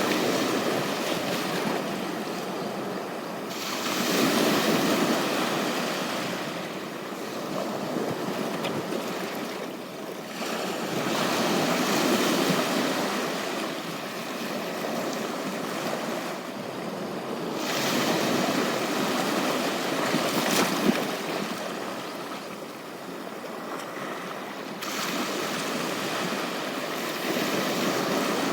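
Ocean waves breaking and washing up a beach, the surf rising and falling in swells several seconds apart.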